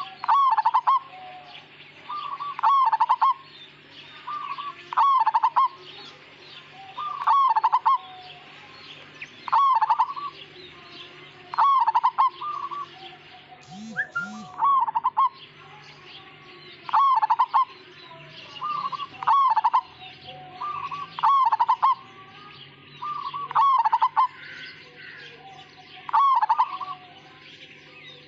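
Zebra dove of the Javanese Majapahit strain (perkutut Majapahit) cooing its rhythmic phrase over and over, about every two seconds. The phrase is the melodious call without a long closing 'kung', the mark of the Majapahit strain. Faint chirping of other small birds runs underneath.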